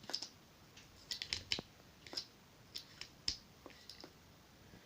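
Irregular plastic clicks and taps from pressing down the legs of a battery-powered talking toy dinosaur. No roar or voice comes from it: the batteries are most likely flat, as its owner thinks.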